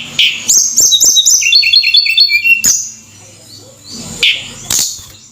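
Tledekan gunung, a small mountain flycatcher, singing a quick run of high whistled notes, each sliding downward. The run steps lower partway through, and a few short calls follow near the end.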